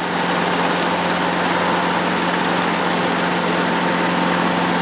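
Helicopter engine and rotor noise heard from inside the cabin while hovering: a steady drone with a constant low hum and a fainter high whine.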